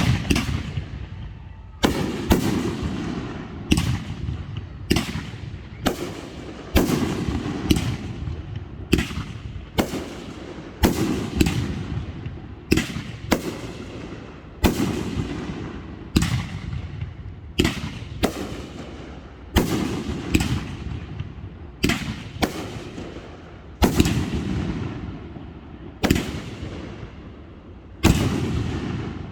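Fireworks display: aerial shells bursting one after another, about one loud bang a second, each bang trailing off in a fading rumble and crackle.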